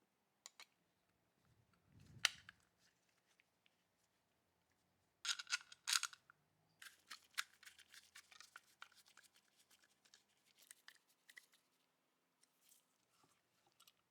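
Faint hand work on small pistol parts: a sharp click about two seconds in, a quick flurry of scraping clicks around five to six seconds, then scattered light ticks and scrapes.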